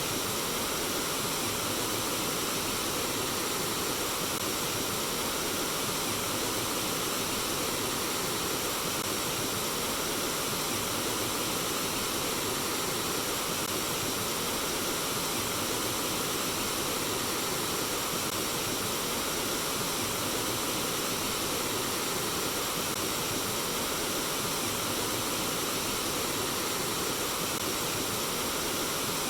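Water of a stream running over rocks, a steady, even rushing noise that does not change.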